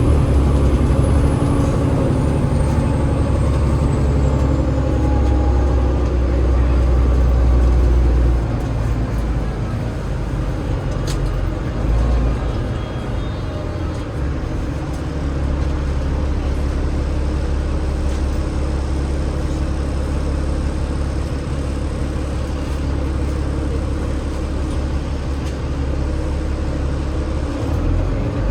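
Cummins ISL8.9 diesel engine of an Enviro500 double-decker bus heard from on board, a steady low rumble with a ZF EcoLife automatic gearbox. A faint high whine falls in pitch over the first few seconds, and the engine note drops about eight seconds in.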